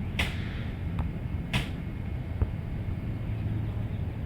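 Two sharp slaps of a volleyball being struck, about a second and a half apart, over a steady low rumble.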